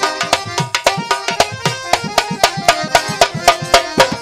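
Qawwali instrumental passage: a fast, busy run of tabla strokes, with low bass strokes that slide down in pitch, over steady held melody notes.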